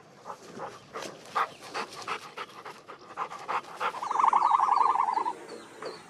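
An animal calling: a quick run of short sounds, about three a second, then one long steady call starting about four seconds in, with faint high chirps toward the end.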